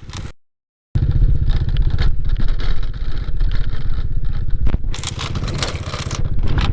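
Small Honda Dream motorbike's single-cylinder four-stroke engine running at a steady pace while riding, its firing pulses coming thick and even. A louder hissing rush comes about five seconds in and lasts about a second. The sound cuts to silence briefly near the start.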